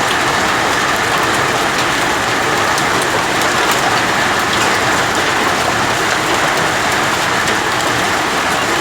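Heavy rain pouring steadily onto hard surfaces, a dense even hiss with scattered sharp ticks of drops striking.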